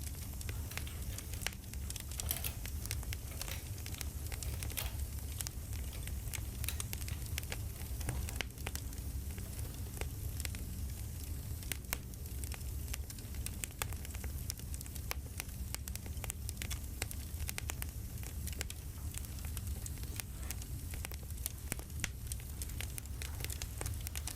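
Campfire crackling: a steady low noise of burning with frequent irregular sharp snaps and pops.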